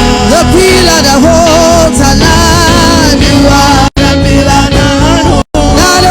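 Live gospel praise-and-worship music: a singer's voice over a full church band. The sound cuts out completely for a split second twice, about four seconds and five and a half seconds in.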